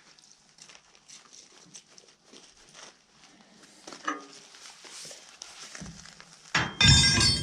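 Faint clicks and rustles of tools being handled, then about six and a half seconds in a loud clatter of metal tools with a brief ringing.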